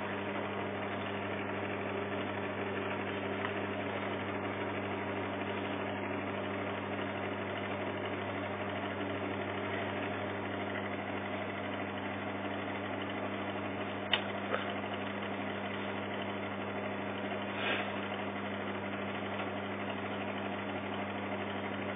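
Microwave oven running: a steady low electrical hum, broken by two short sharp clicks about fourteen seconds in.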